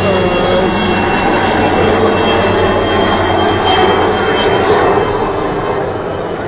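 Helicopter flying close by: a loud steady rushing with a high engine whine over it, easing slightly near the end.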